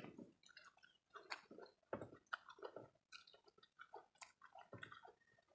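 Faint chewing and mouth sounds of people eating rice and curry, a string of irregular soft smacks and clicks.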